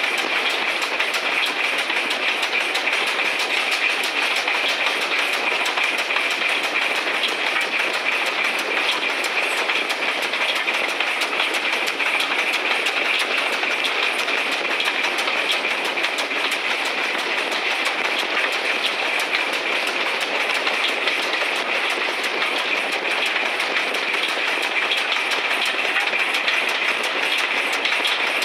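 Steam-hauled train on the move, heard from an open window near the engine: a steady, unbroken rush of wheel-on-rail running noise with a fast clatter, loudest in a hissing upper band.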